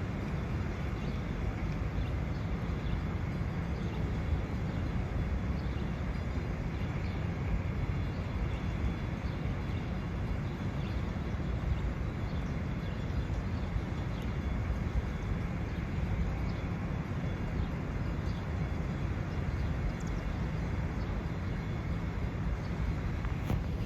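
Steady low rumble with a fainter hiss, even throughout, with no horn sounding.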